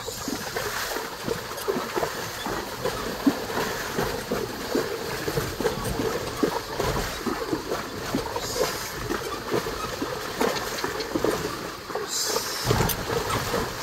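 A carabao (water buffalo) hauling a cart through a wide river crossing, its legs and the cart's wheels churning the water in a busy, irregular run of splashes and sloshing.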